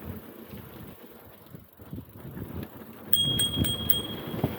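Bicycle bell rung in a quick trill of four strikes about three seconds in, its ring lingering briefly, over the low rumble of the bike riding along.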